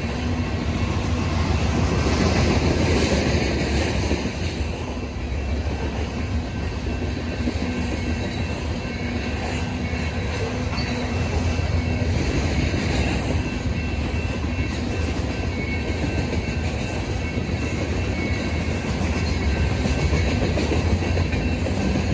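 Union Pacific grain train of loaded hopper cars rolling past, a steady rumble of steel wheels clacking over the rail joints.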